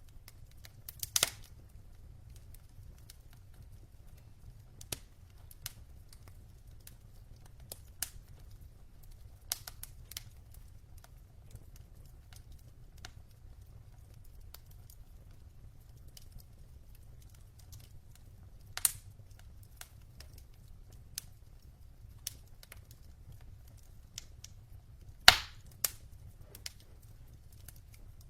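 Logs burning in a fireplace, crackling with scattered sharp pops a few seconds apart over a low steady rumble; the loudest pop comes near the end.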